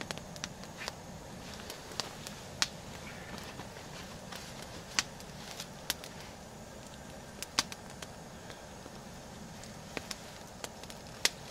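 Campfire of burning wood crackling, burning hot, with sharp pops at irregular intervals over a steady hiss.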